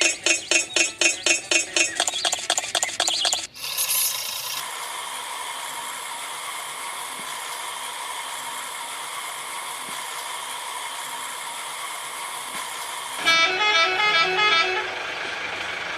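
A fast pulsing sound for the first few seconds gives way to a steady vehicle-like hum. About thirteen seconds in comes a short run of horn toots that step up and down in pitch.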